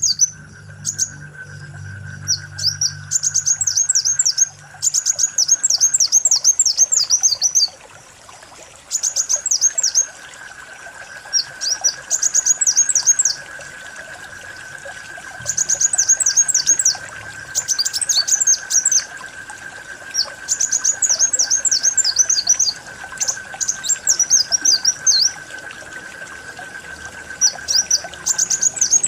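Kolibri wulung sunbird singing: phrases of high, rapid twittering chirps, each lasting one to three seconds, repeated with short pauses between them.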